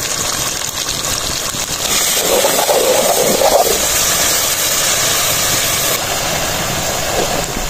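Minced meat and cream sizzling steadily in an aluminium pot over a wood fire as they are stirred together with a ladle.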